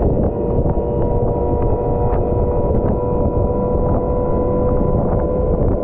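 Volvo L110 wheel loader running steadily: a dense low diesel drone with a constant whine on top.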